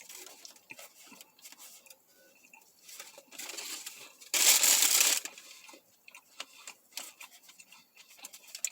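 Paper sandwich wrapper rustling and crinkling as a sub is handled and bitten into, with small scattered clicks; the loudest part is a burst of crinkling lasting under a second about halfway through.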